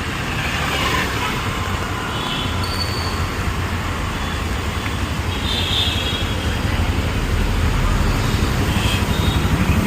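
City street traffic: a steady rumble of passing vehicles and road noise, the low rumble swelling toward the end.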